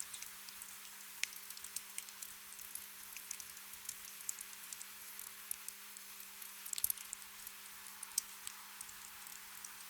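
Gentle rain ambience: a soft hiss with scattered drops ticking irregularly, and a small cluster of louder drips about two-thirds of the way through. A faint steady hum sits underneath.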